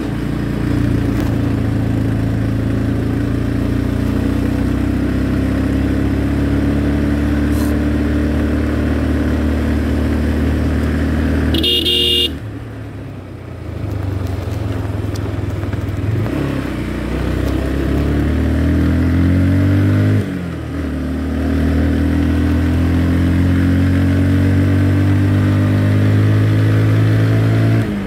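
Motorcycle engine running under way, its pitch climbing and dropping as it pulls through the gears and eases off twice, under a haze of wind noise. A short horn beep sounds near the middle, just before the engine drops back.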